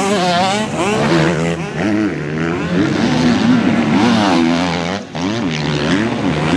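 Several motocross bike engines revving hard and backing off again and again, their pitch rising and falling quickly, with a short drop in level about five seconds in.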